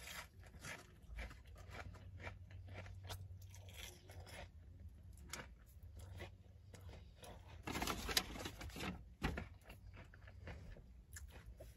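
Close-up chewing and crunching of fried onion rings, many small crackles, with a louder crackly stretch about eight seconds in.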